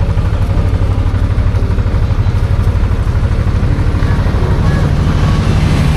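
Suzuki V-Strom 650's V-twin engine running on the move, with a steady low throb of exhaust pulses; the engine note climbs a little near the end.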